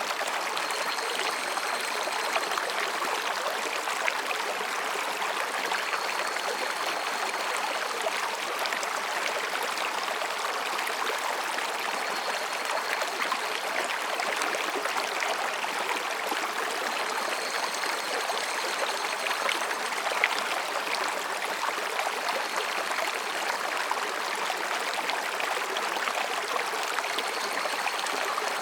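Mountain stream rushing between rocks, a steady full rush of water. Faint high calls of higurashi (evening cicadas) come and go several times behind it.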